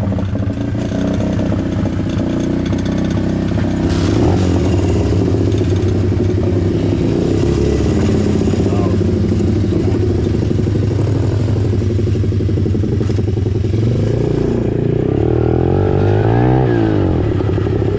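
Pit bike engine running steadily close by, then revved up and down a few times near the end.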